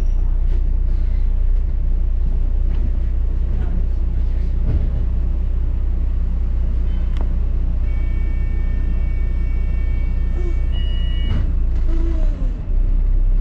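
Double-decker bus interior while riding: a steady low rumble from the engine and road. About two-thirds of the way through, a steady high-pitched tone sounds for about three seconds.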